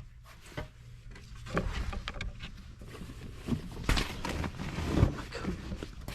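Scattered knocks and clatter of fishing gear being handled in a bass boat's storage compartment, the loudest about four and five seconds in.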